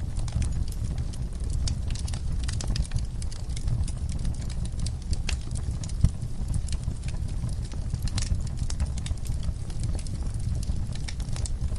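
Wood fire crackling in a fireplace: irregular sharp pops and snaps over a steady low rumble, with one louder pop about halfway through.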